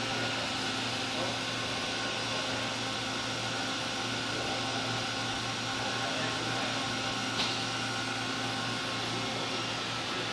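Three-phase 5 CV electric motor running steadily at speed: a constant hum with a broad whir over it, and one short click about seven seconds in.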